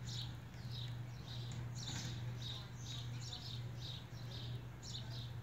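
Small bird chirping over and over, short high chirps two or three times a second, over a steady low hum.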